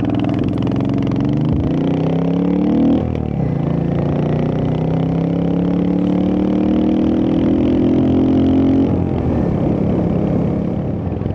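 Royal Enfield Hunter 350's single-cylinder engine pulling away under acceleration. The revs rise, drop sharply at a gear change about three seconds in, then climb steadily again before easing off near the end.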